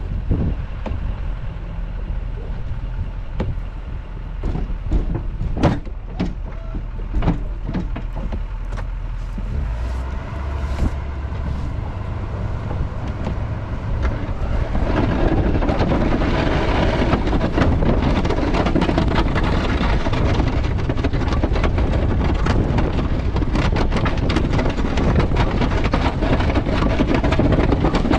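A vehicle engine running steadily, with scattered knocks and clunks during the first ten seconds; from about fifteen seconds in it grows louder and noisier, as under load.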